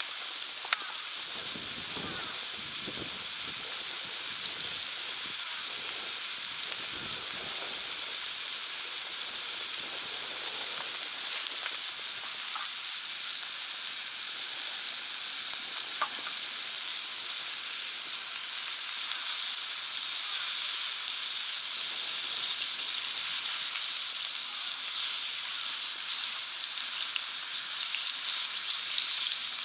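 Meat sizzling steadily on a cast-iron Genghis Khan grill pan heated over a wood fire, a continuous hiss with a few faint ticks.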